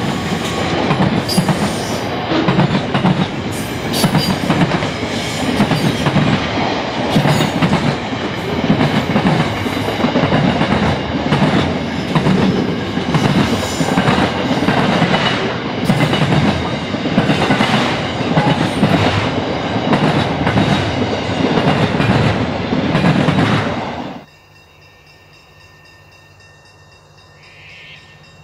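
Freight train wagons rolling past, their wheels clattering over rail joints in a regular beat of roughly once a second. About 24 seconds in, the sound cuts off abruptly to a much quieter background with a faint steady high-pitched tone.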